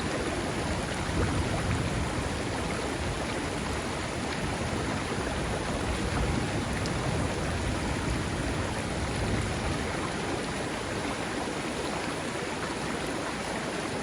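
River water flowing steadily in an even rush, with rain falling and faint scattered drop ticks; no thunder.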